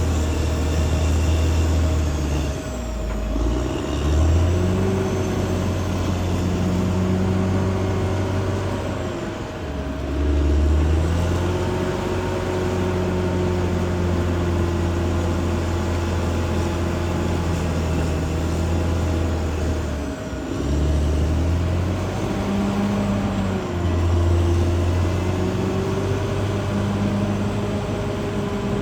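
Diesel engine of a Caterpillar D6R XL bulldozer running hard, its note dipping briefly and recovering about four times, with a steady whine above the engine.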